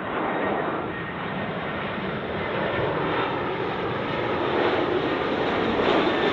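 Jet airliner on short final approach, its engine noise growing steadily louder as it comes in, with a faint thin whine over the rumble.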